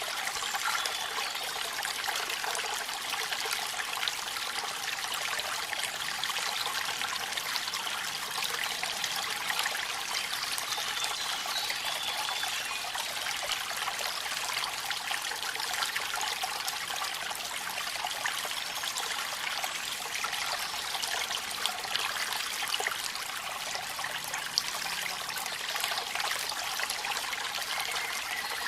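Waterfall in the rain: a steady, even rush of falling water, mostly hiss with little low rumble.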